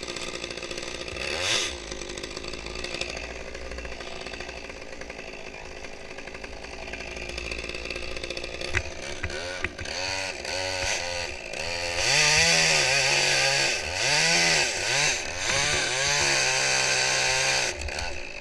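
Two-stroke chainsaw idling with a brief rev, then revved up and down several times about halfway through. From about two-thirds in it runs hard at full throttle, as in a cut, until it drops off just before the end.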